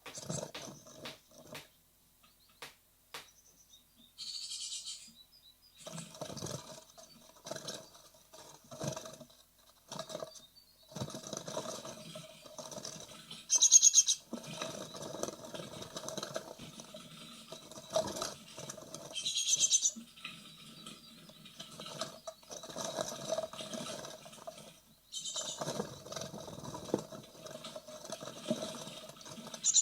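Great tit nestlings close to fledging moving restlessly inside a wooden nest box: scratching and rustling of claws and wings against the wood, broken by a few short bursts of high-pitched begging calls.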